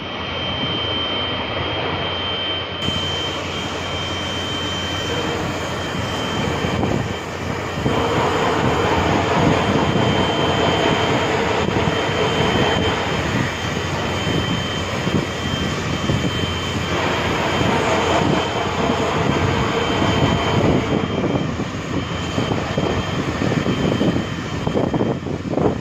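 Hot-air plastic welding gun running steadily, its blower giving a continuous rushing noise with a steady high whine, and small shifts in tone partway through.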